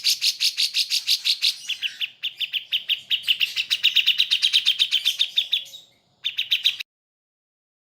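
Songbird song recording: a rapid series of chirps, about seven a second, turning about two seconds in to sharper, quickly falling notes. It breaks briefly near six seconds and then cuts off suddenly just before the end.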